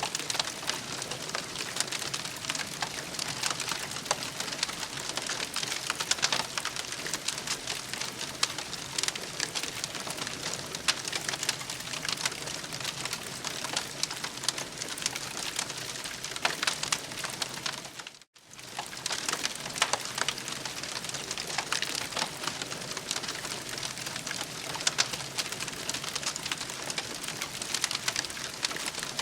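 Campfire crackling and popping steadily, dense short snaps over a soft hiss. The sound cuts out briefly about eighteen seconds in, then carries on as before.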